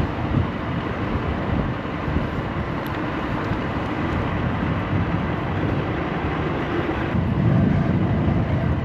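Steady rush of wind and road noise from a moving electric scooter in city car traffic, with a low traffic rumble that swells louder near the end.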